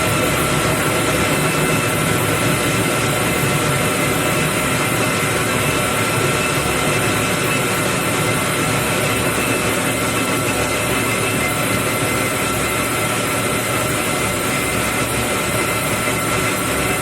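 Metal lathe running steadily while cutting a rod: a continuous machine noise with a steady high whine that does not change.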